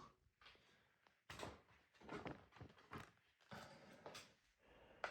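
Faint, scattered knocks and rubs of a screwdriver and hands working at the screws of a cassette deck's chassis.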